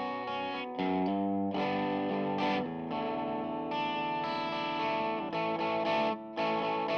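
Fano Omnis JM6 Jazzmaster-style electric guitar played through an effects pedalboard, strumming ringing chords, with new chords struck about a second in and again at about one and a half and two and a half seconds, and a brief break about six seconds in.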